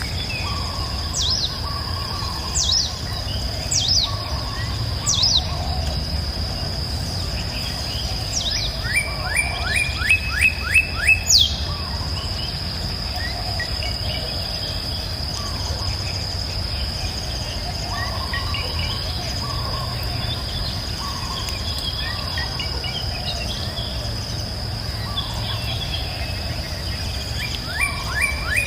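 Wild birds singing: short sweeping whistled calls every second and a half or so, then a quick run of about seven rising notes, with softer warbling later. Underneath is a steady high-pitched insect buzz and the low, even rush of a river.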